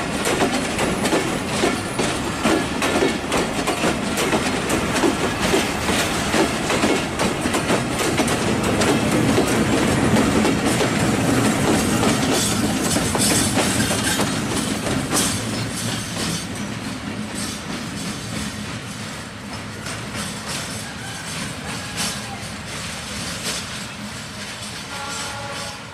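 A broad-gauge passenger train rolls past at close range, its wheels clacking rhythmically over the rail joints. A diesel locomotive passes about midway, where the sound is loudest. After that the sound fades as the train moves off.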